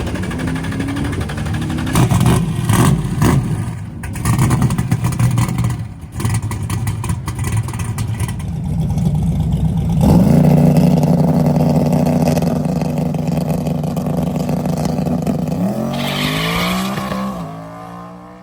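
Carbureted pushrod V8 drag car revving and pulling hard on a hard launch down the strip. The first seconds are uneven revving with crackle. The engine jumps to a loud, steady full-throttle note about ten seconds in, rises again near the end, then fades away.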